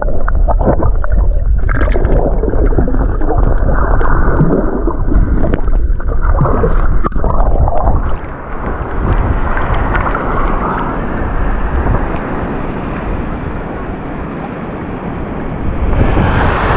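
Seawater splashing and gurgling close to the microphone as a person moves about in shallow water. It is loud and choppy with many small knocks for about the first half, then settles into a quieter, steadier wash.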